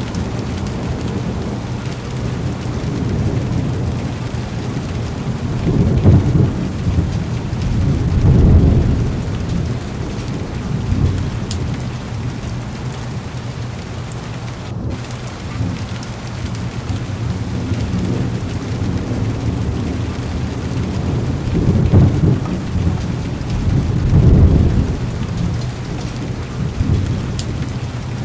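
Heavy rain falling steadily on a car's window, with low thunder rumbles swelling up four times.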